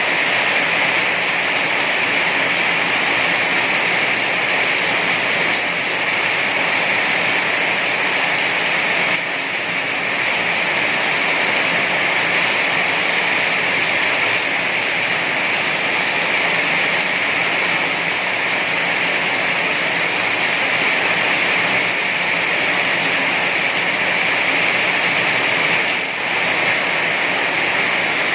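Heavy rain falling as a steady, even hiss, with two brief slight dips in level, about a third of the way in and near the end.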